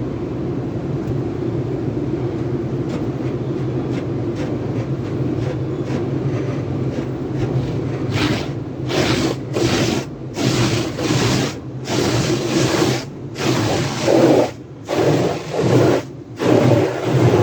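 Sonny's car wash tunnel equipment running: a steady mechanical hum, then from about halfway in a rhythmic series of swishing, spraying bursts about once a second.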